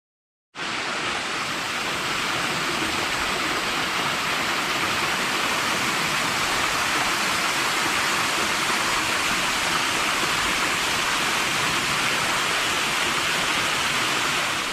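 Small waterfall rushing steadily, heard close up. It starts abruptly about half a second in.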